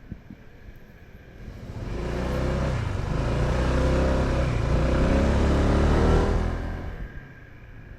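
A motor vehicle engine grows louder from about two seconds in, stays loud for several seconds, then fades away near the end, over steady wind noise.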